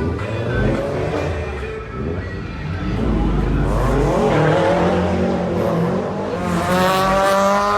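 Sports car engine revving hard as the car accelerates away, its pitch climbing twice, about halfway through and again near the end.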